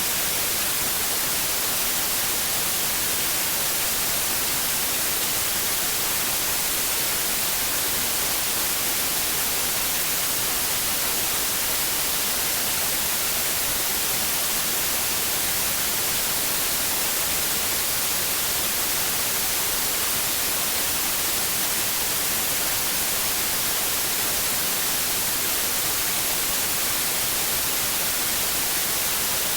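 Steady white noise: an even, unchanging hiss, strongest in the high frequencies, played as a sleep sound for babies.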